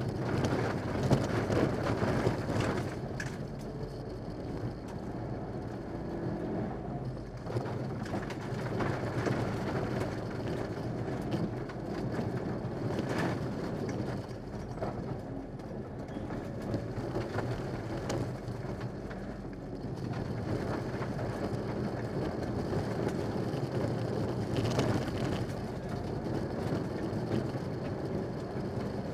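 Mitsubishi Lancer Evo 6 rally car's turbocharged four-cylinder engine running hard on a gravel stage, heard from inside the cabin, its pitch rising and falling with throttle and gear changes, with scattered clicks of gravel striking the car.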